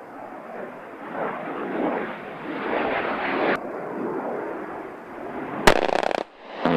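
Military jet aircraft passing, a noise that swells over the first few seconds and breaks off abruptly, then goes on. About five and a half seconds in, a sharp bang followed by half a second of dense noise that stops suddenly.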